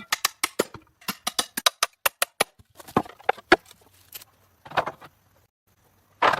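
Quick runs of sharp knocks or taps, several a second, in bursts with short pauses between them.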